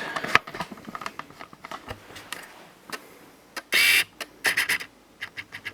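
Clicks and clatter of tools being handled, with a short harsh squeaky scrape a little under four seconds in and a second, shorter one just after.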